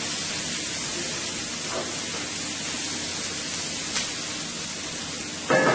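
Sliced onions and sweet peppers sizzling steadily as they sauté in a skillet. A faint tick comes about four seconds in, and a short voice-like sound at the very end.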